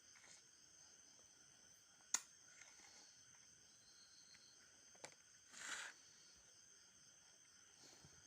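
Near silence: room tone, with one sharp click about two seconds in and a short soft noise a little past the middle.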